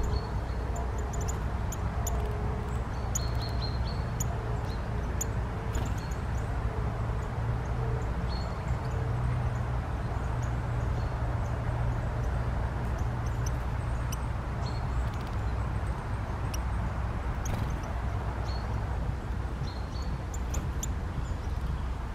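Steady rain, with many sharp, irregular ticks of drops landing close by over a low steady rumble.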